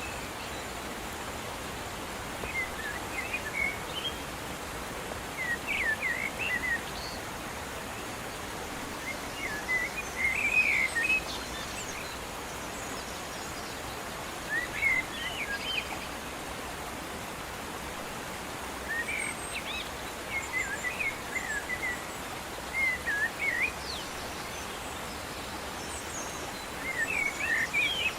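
Birds chirping in short bursts of quick, twittering notes every few seconds, over a steady outdoor hiss.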